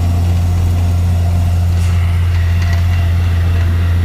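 Tractor engine running steadily while driving, a loud, even low drone heard from the driver's seat.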